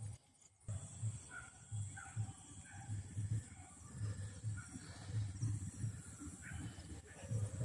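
Insects chirring in a steady high drone, with faint short bird chirps and soft low thumps about twice a second.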